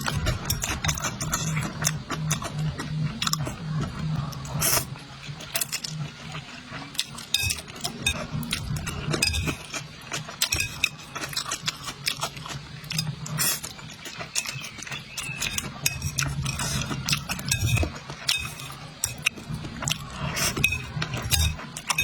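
Close-up eating of braised rice noodles, with many sharp clicks and clinks of utensils against a bowl mixed with mouth sounds.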